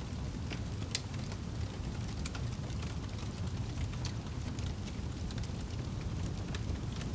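Wood fire crackling, with scattered sharp pops and snaps over a steady low rumble of flame.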